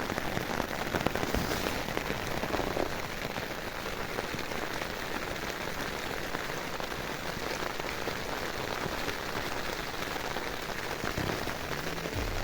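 Steady rain falling, a dense even patter of many small drops on a surface.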